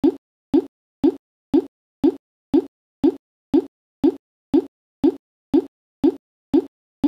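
A short electronic 'plop' sound repeating at an even two per second, each one identical, with nothing else heard.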